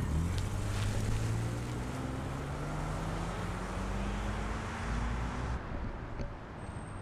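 Jeep Grand Cherokee SUV pulling away from the curb, its engine note rising steadily as it accelerates, with road and tyre noise. The sound cuts off abruptly about five and a half seconds in, leaving quieter outdoor background.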